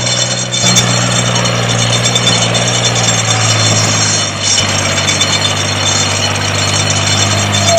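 Homemade mini tractor's small motor and gearing running steadily, a low drone with a rattly hiss that shifts slightly in pitch twice.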